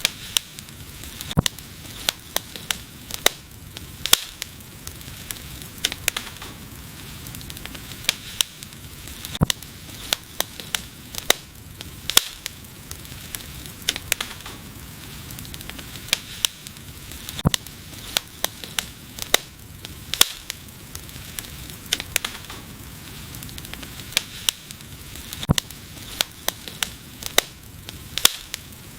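Wood fire burning in a fireplace, with frequent sharp crackles and pops over a steady hiss.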